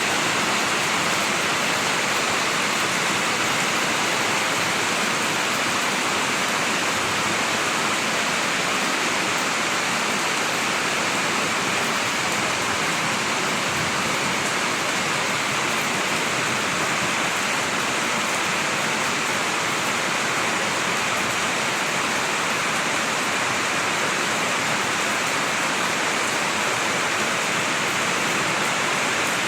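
Heavy rain falling in a steady, even hiss with no letup.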